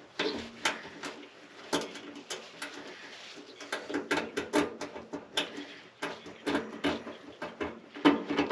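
Irregular clicks, clinks and knocks of hand tools and small metal parts being handled while a furnace blower motor is unbolted, over a faint low steady hum.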